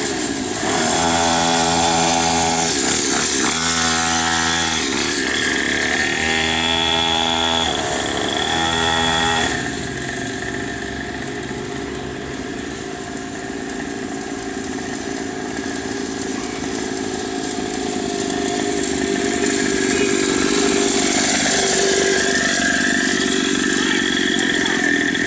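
A 50cc mini motocross bike's small two-stroke engine revs in repeated short bursts. After about ten seconds it settles to a steadier, quieter run, then grows louder again, with a brief dip in pitch near the end.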